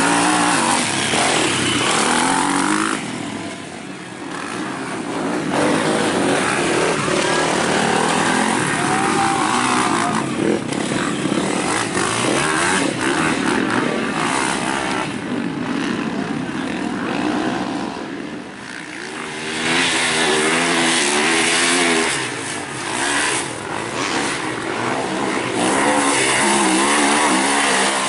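Several motocross dirt bikes racing, engines revving up and falling off as they pass, with a few brief dips when the bikes move away.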